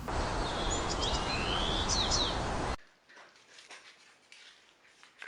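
Several short, high bird chirps over a loud, steady background hiss. The sound cuts off abruptly a little under three seconds in, leaving only faint clicks and rustles.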